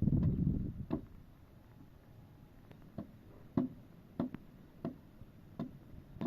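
A brief rustling handling noise, then a series of light, sharp knocks and ticks at uneven intervals, roughly one every half second to two seconds.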